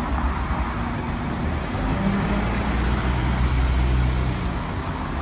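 Road traffic: car engines running at low speed with a steady low hum over tyre and street noise.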